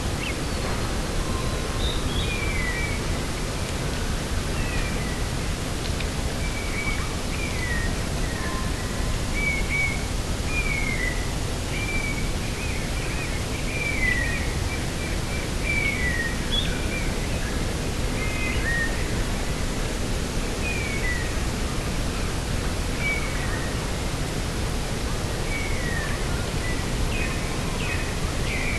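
A steady rush of wind over open coastal ground, with small birds calling all through it in short, falling chirps, one every second or two.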